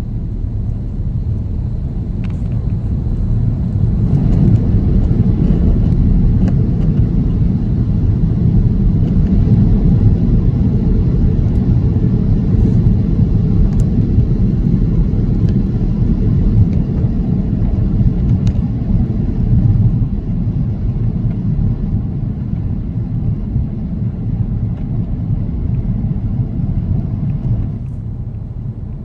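Airbus A330-900 airliner heard from inside the cabin: a loud, steady low rumble of engines and airframe. It swells about four seconds in and eases off near the end.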